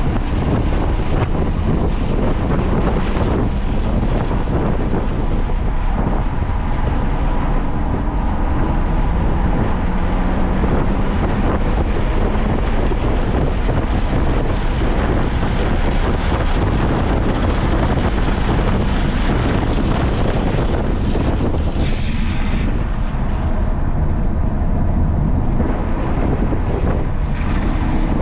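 Car being driven at speed on a race track: engine and road noise mixed with wind on the microphone, with the engine pitch rising and falling a little.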